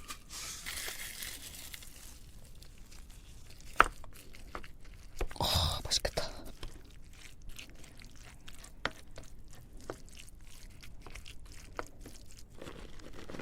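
Scattered light clicks and scrapes of a spoon stirring rice with seafood, sauce and sesame oil, with some soft crinkling.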